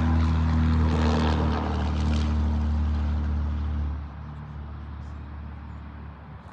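CSX diesel locomotives running steadily with a deep engine drone, which drops off sharply about four seconds in as the units pull away.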